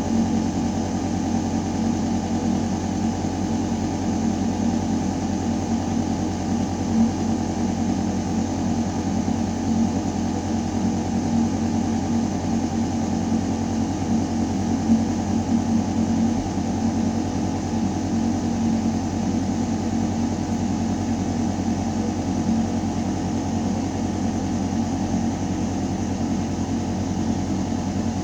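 Ventilation system running in a building's air shaft: a steady low mechanical hum with air rushing through the metal ductwork.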